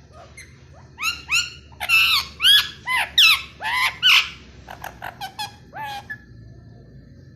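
Pet parrot squawking: a quick run of about eight loud, harsh calls, each rising and falling in pitch, starting about a second in, then a few shorter, quieter calls that stop about six seconds in.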